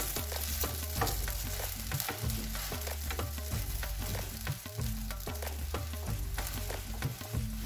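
Corn-batter roti sizzling as it fries in hot oil in a non-stick karai. A spatula scrapes and taps against the pan as it presses and shifts the roti.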